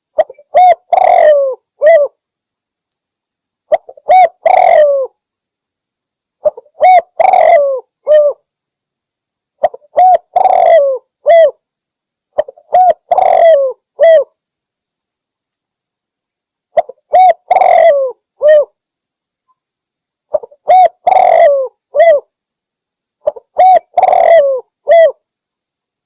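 Spotted dove (Javanese derkuku) cooing repeatedly. Each phrase is a quick run of several coos, and eight phrases come about every three seconds with short silences between.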